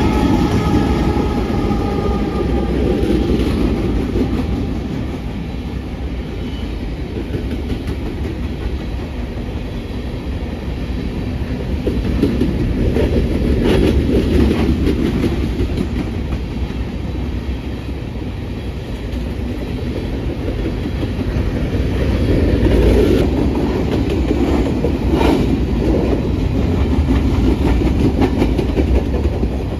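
Freight train passing close by. A whine from the trailing diesel locomotives fades over the first couple of seconds. Then loaded covered hopper cars roll past with a steady rumble and the clickety-clack of wheels over rail joints. A few sharp metallic clanks come about halfway through and again near the end.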